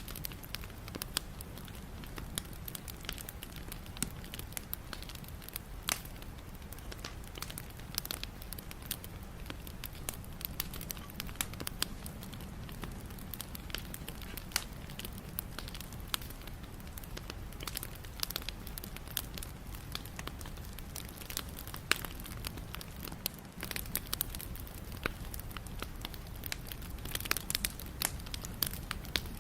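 Wood fire burning with a steady low rumble and frequent irregular crackles and pops, a few of them louder.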